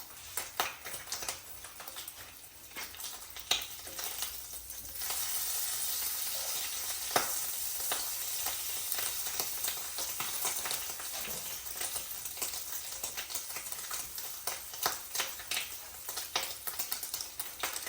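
Food frying in a pan: a steady sizzle sets in about five seconds in, with scattered clicks and taps of utensils throughout.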